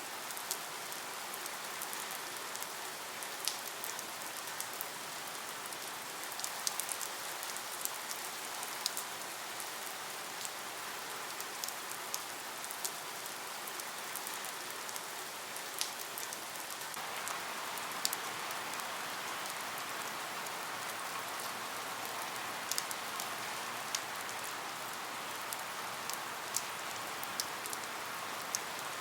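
Steady rain hiss with scattered sharp drop ticks, growing a little fuller a little past halfway through.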